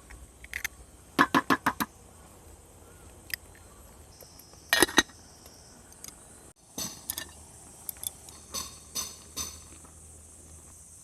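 A quick run of about six sharp knocks a little over a second in, a louder pair of knocks around the middle, then scattered lighter clicks.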